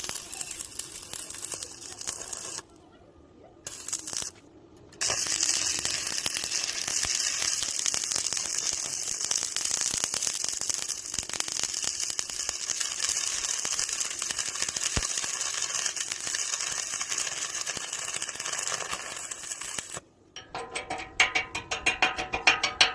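Stick (arc) welding arc crackling and sizzling steadily as a weld layer is laid, with two short breaks in the first few seconds. About twenty seconds in, the arc stops and music with a beat starts.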